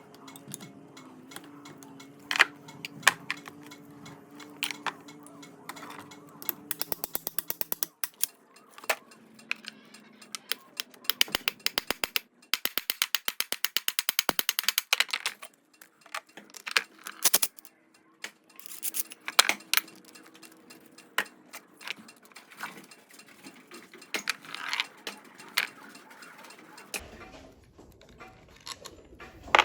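Metal hand-tool work: scattered clicks and knocks, with two runs of rapid, evenly spaced clicking, the longer lasting about four seconds.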